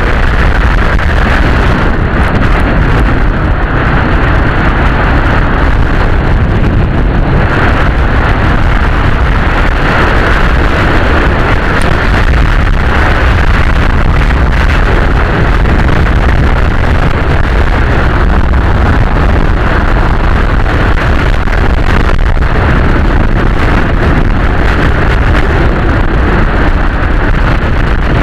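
Dnepr motorcycle's flat-twin engine running steadily on the move, with wind noise on the microphone over a loud low rumble.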